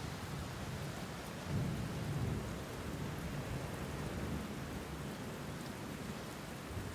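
Steady rain falling, with a low rumble of thunder swelling about a second and a half in and fading a second later.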